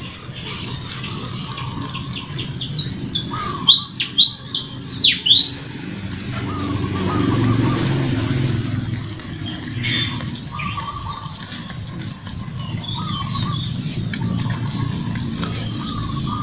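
Small birds chirping again and again over a steady high insect whine, with a quick run of loud, shrill, falling squeaks about four seconds in. Underneath, puppies munch rice off a metal tray, with a single sharp click a little past halfway.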